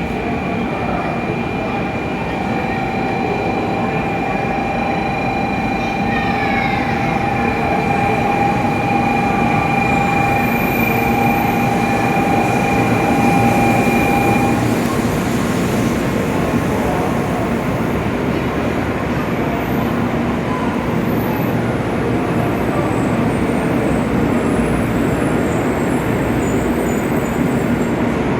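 N700 series 8000-series shinkansen train running into the platform and slowing to a stop, with a steady rumble of wheels and running gear. Two steady high whining tones sound over it and cut off about halfway through, with a few short falling whines around a quarter of the way in.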